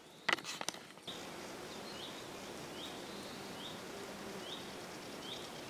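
A small bird repeats one short, high chirp about once a second over a steady background hiss. A brief run of sharp clicks comes just before, within the first second.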